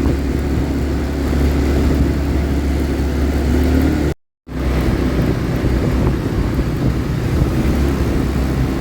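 ATV engine running steadily under throttle. The sound cuts out completely for a split second about four seconds in.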